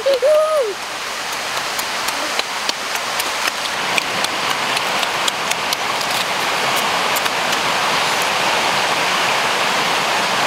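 A person eating cooked snail meat with wet chewing and lip-smacking: a run of many small clicks over a steady hiss.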